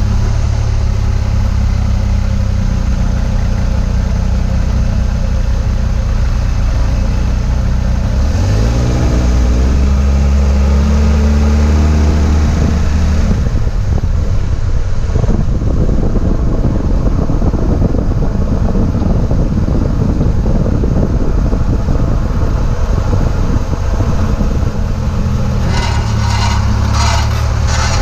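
2004 Chevy Trailblazer running: a steady engine hum that rises in pitch about eight seconds in, then road and tyre noise while driving, with a run of rapid grinding clicks near the end. This is the grinding-when-turning noise the owner traced to a failing CV axle.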